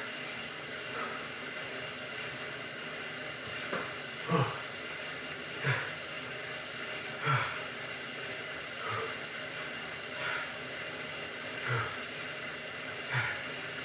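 Heavy, rhythmic breathing of a man working hard on an exercise bike, with a puffed exhale about every second and a half over a steady hiss.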